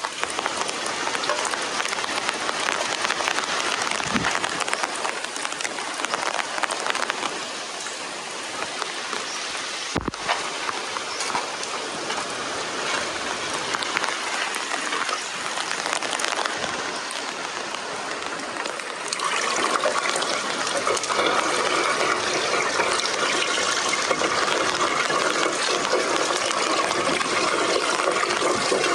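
Water rushing steadily, a constant noisy wash, growing louder and fuller about two-thirds of the way in.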